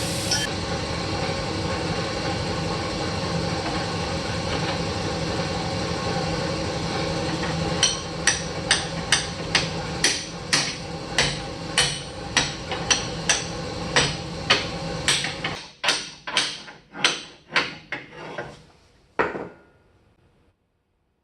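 Hammer blows on metal, about two a second, some twenty strikes with a bright ring, from about eight seconds in, with a final lone blow near the end. A steady machine hum runs underneath until about fifteen seconds in, then stops.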